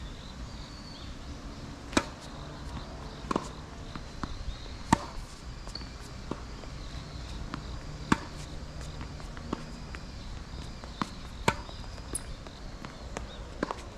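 A tennis rally on a hard court: four sharp racket strikes on the ball, roughly three seconds apart, with softer ball bounces between them, over a steady low rush of wind on the microphone.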